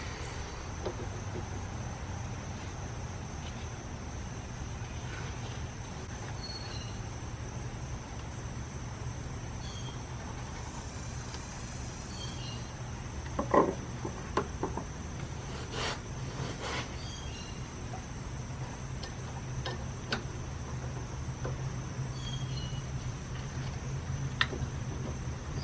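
A few sharp metallic clinks and knocks, a cluster of them about halfway through, as a brake caliper and hand tools are handled on a car's front hub, over a steady low hum and a steady high whine.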